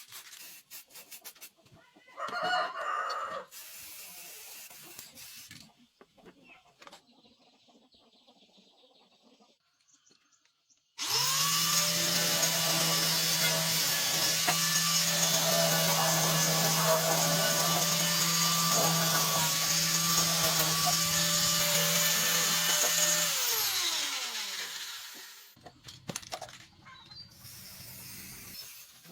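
A handheld electric power tool runs steadily at full speed for about thirteen seconds, then spins down. A rooster crows early on.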